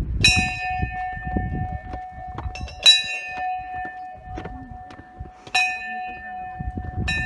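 A hanging metal temple bell struck four times, about every two and a half seconds. Each strike rings on in long, steady, clear tones until the next one.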